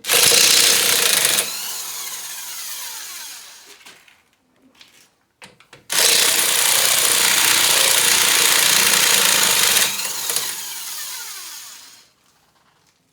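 A power tool run in two long bursts, about six seconds apart, each winding down afterwards with a falling whine as the motor slows.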